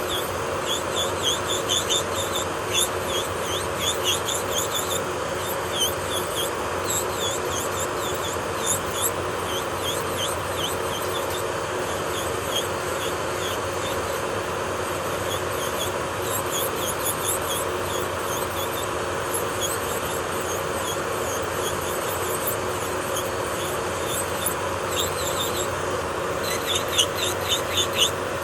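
Electric nail drill (e-file) running steadily while it files gel off a nail, with many short high-pitched squeaks over the hum, thinning out in the middle and coming thick again near the end.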